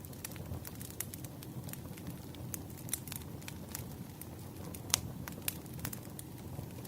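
Campfire burning: a steady low rush of flame with frequent irregular crackles and pops of burning wood, one sharper pop about five seconds in.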